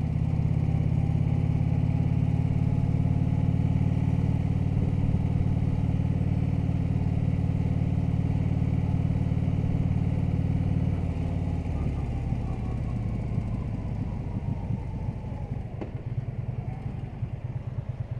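Harley-Davidson touring motorcycle's V-twin engine running steadily under way. About two thirds of the way in it drops to a lower, pulsing beat as the bike slows.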